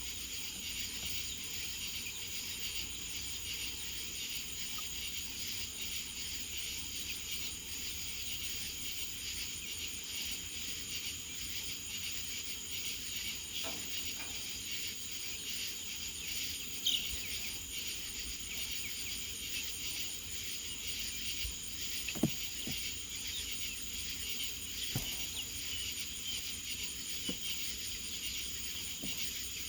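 Steady night chorus of crickets chirring, with a few faint clicks or knocks in the second half.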